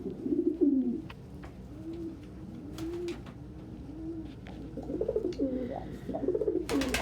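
Domestic pigeons cooing: a run of low, rising-and-falling coos, livelier toward the end, with a few sharp clicks and a short clatter near the end.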